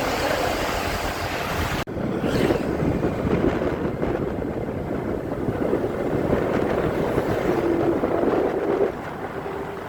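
A motorcycle on the move: a steady engine hum with road noise. About two seconds in the sound cuts abruptly and carries on with less hiss.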